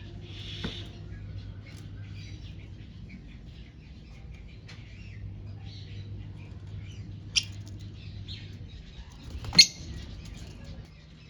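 Lovebirds chirping with many short, quick notes, over a steady low hum. Two sudden sharp sounds stand out, the louder one near the end.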